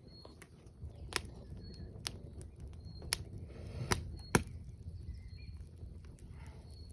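Wood campfire crackling, with sharp pops about once a second, the loudest a little past four seconds in, over a low rumble.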